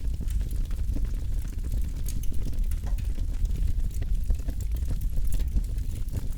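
Campfire burning with a steady low roar and many small crackles and pops scattered through it.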